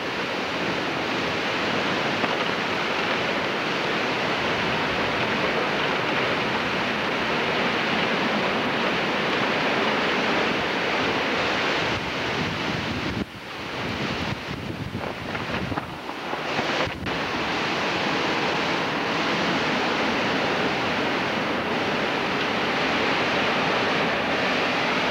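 Strong storm wind blowing across the camcorder microphone, a loud, steady rushing noise with a short, uneven lull a little past halfway.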